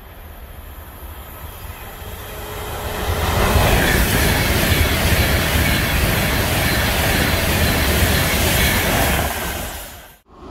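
Avanti West Coast express train passing at speed: a rush of wheel and rail noise that builds, holds steady for several seconds, then fades near the end and cuts off abruptly.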